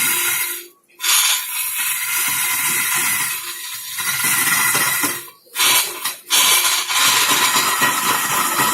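Wood lathe turning with a cutting tool against the spinning wood: a steady, loud hiss with a faint machine whine. It breaks off sharply for a moment about a second in and again about five and a half seconds in.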